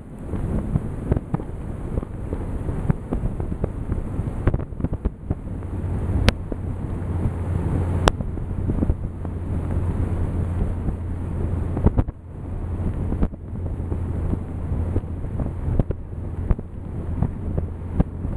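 Toyota 1JZ-GTE VVTi straight-six running through a custom 3-inch exhaust with a JASMA muffler, a steady deep exhaust note in an underground garage. There are two sharp clicks in the middle.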